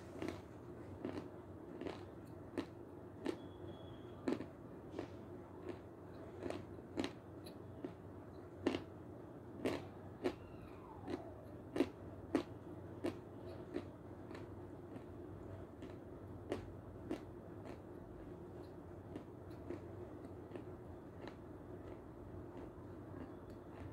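Severski edible chalk crunched between the teeth: steady chewing crunches close to the microphone, about three every two seconds, growing fainter and sparser in the second half.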